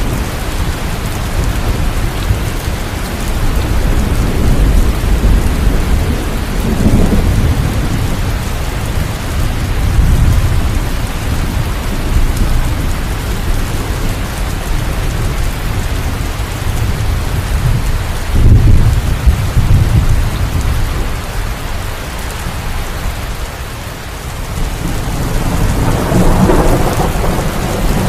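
Steady heavy rain with rolling thunder rumbling several times, one clap setting in suddenly about two-thirds of the way through.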